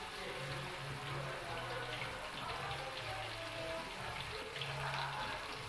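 Ground chili spice paste sizzling in hot oil in a wok, a steady hiss that starts suddenly as the paste goes in.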